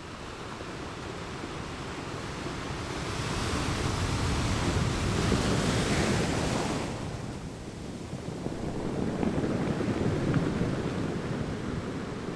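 Ocean waves washing onto a shore: one wave builds to a loud hiss that cuts off about seven seconds in, followed by a second, deeper wash.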